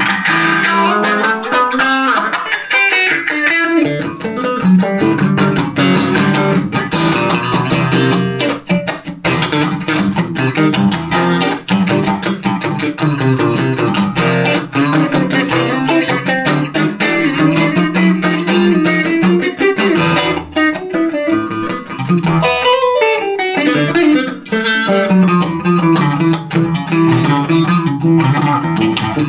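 Instrumental electric guitar played live: a Telecaster through a Roland JC-120 amp, picking continuous runs of notes over a steady low part.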